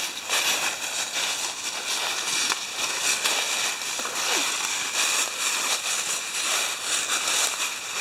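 Footsteps crunching and crackling through dry fallen leaves on a forest trail, a steady run of quick crackles.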